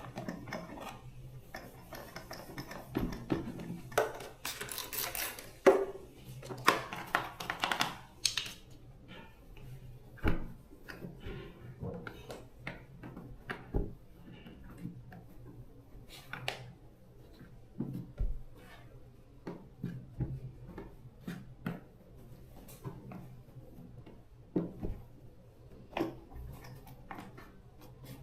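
Small metal parts and hand tools clicking, tapping and clattering as they are handled during work on an electric fan motor, with two longer scratchy noises in the first third.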